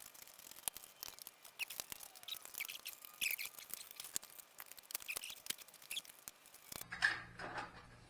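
Hand socket ratchet clicking in rapid, uneven runs as bolts are backed out, with a few short squeaks. Near the end a couple of louder metallic clatters are heard.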